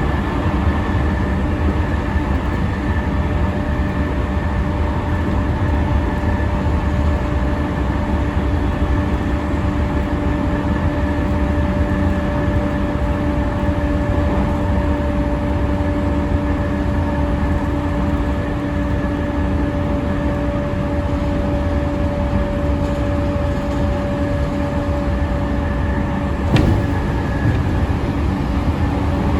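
E217 series electric train with Mitsubishi IGBT inverter traction, running at a steady pace: heavy wheel-on-rail rumble with a steady whine from the traction equipment. One sharp click comes near the end.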